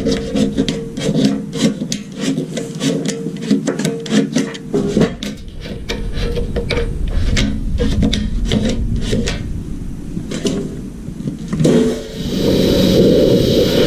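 Rapid, repeated rasping strokes, like a file or abrasive scraping at a hard surface, over a steady low hum. About twelve seconds in, the scraping gives way to a steady hiss.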